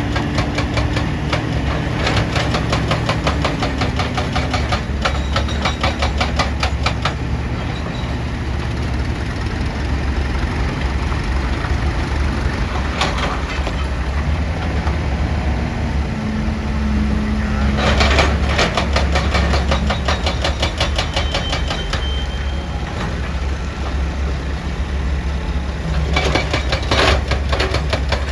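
Excavator diesel engine running steadily under load, with several bouts of rapid, rhythmic hammering from a hydraulic rock breaker striking rock, the strongest near the middle and near the end.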